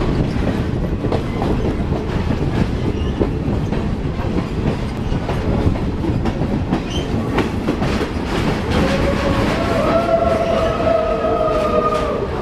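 Passenger train running on steel rails: a steady rumble and clatter of the wheels. About two-thirds of the way in, a wavering squeal of wheels against the rail joins in and keeps going.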